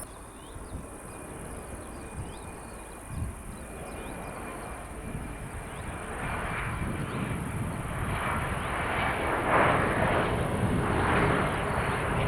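Jet airliner engines growing steadily louder as the aircraft approaches, with a wavering, surging rumble from about halfway through.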